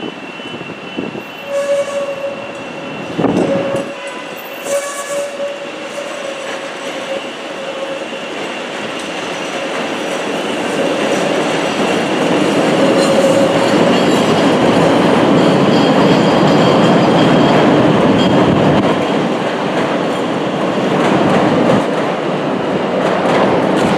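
Chicago CTA 'L' rapid-transit train running past on the tracks. Its rumble builds over the first half and stays loud, with a steady tone ringing over it for about the first half.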